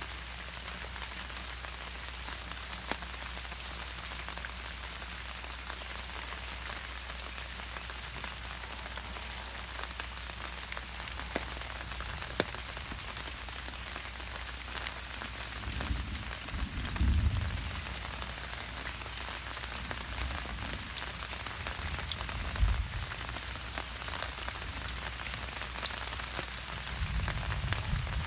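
Steady rain pattering, with a few scattered drop clicks. Several low rumbling swells come through about halfway in and again near the end.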